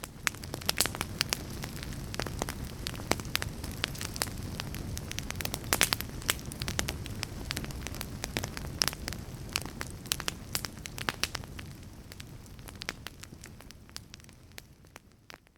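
Fire crackling: a steady low rumble of burning with frequent sharp pops and snaps, fading out near the end.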